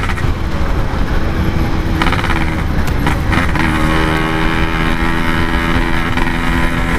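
Yamaha RX-King two-stroke single-cylinder motorcycle engine running under way, its exhaust through a sheet-metal stock-style silencer. The engine note changes pitch about two seconds in and again a little later, then holds steady.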